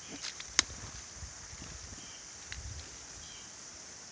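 A steady high-pitched insect chorus, with a few faint clicks in the first second and two small ticks about halfway through.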